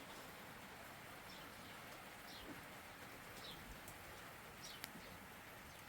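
Faint steady rain hiss, with a small bird chirping briefly a few times, about once a second.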